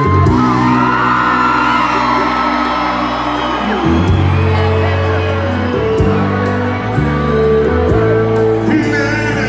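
Live sertanejo band playing an instrumental passage through a concert sound system: held chords over a bass line that changes about once a second. Audience voices whoop over the music.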